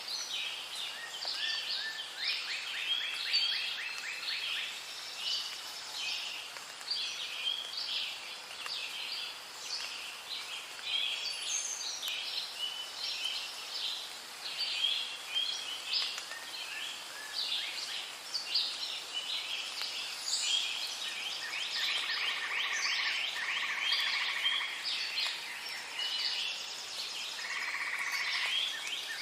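Rainforest ambience: many birds chirping and calling over one another in a dense, continuous chorus, with rapid pulsed trills running through it.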